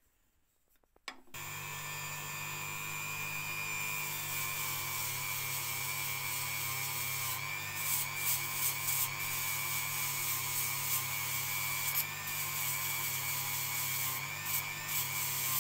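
Dremel rotary tool switching on about a second in and running with a steady high-pitched whine, polishing a ring bent from a spoon. From about halfway through, short irregular scrapes are heard as the bit presses against the metal.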